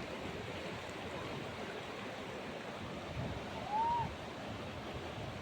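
Rushing whitewater of the Beas River, a steady hiss of rapids. A little past halfway a short high call that rises and falls in pitch sounds over it.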